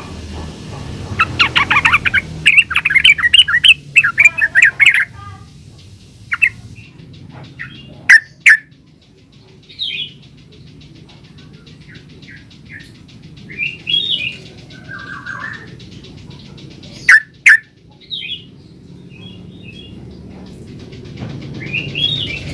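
Yellow-vented bulbul singing in an active, chattering run: a fast burst of quick chirps about a second in, then scattered short phrases and two pairs of very sharp, loud notes.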